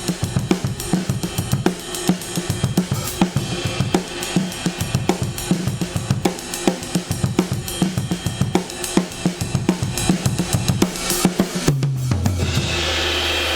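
Recorded drum kit playing a busy beat of kick, snare, hi-hat and cymbals, processed through a DBX 119 compressor/expander. About 12 seconds in the beat stops, and a low ringing tone dips in pitch and then holds steady.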